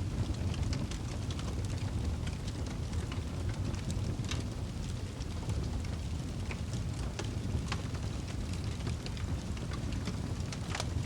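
Fire burning in a fireplace: a steady low rumble with frequent irregular crackles and pops.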